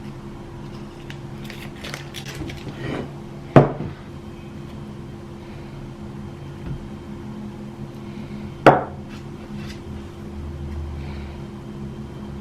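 Mugs clinking and knocking against the pot as they are lifted out and set down. There are a few light clinks, then two sharp clunks about five seconds apart, over a steady low hum.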